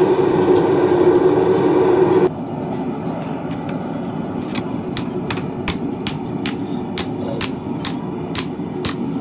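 A loud steady drone cuts off about two seconds in. Then a hammer strikes metal in a steady rhythm, about two blows a second, over a continuous rushing background.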